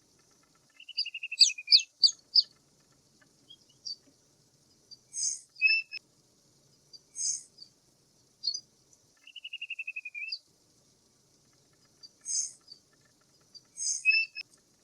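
Birds calling: short sharp high chirps, two quick trills of falling notes lasting about a second each (one near the start, one about ten seconds in), and several hissy, higher calls.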